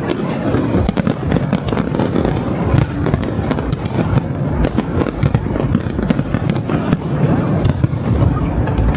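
Fireworks going off in rapid succession, a dense run of bangs and crackles with no pause, over crowd voices and music.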